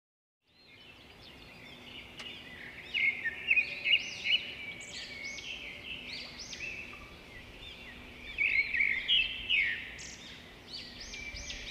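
Birds chirping and singing, many short quick calls overlapping, fading in just after the start, over a faint steady low hum.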